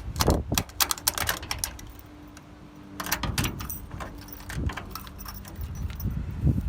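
Keys jangling and rapid metallic clicking, in a dense cluster over the first two seconds and again around three seconds in.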